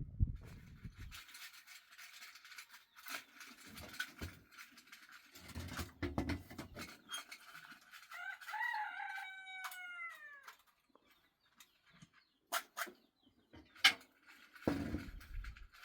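A rooster crows once, about halfway through: a drawn-out call that falls in pitch at the end. Scattered knocks and clicks come before and after it.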